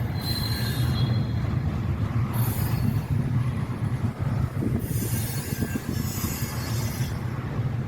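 Freight train of intermodal flat cars rolling past: a steady low rumble of wheels on rail, with a brief high wheel squeal about half a second in and surges of rushing hiss as cars go by.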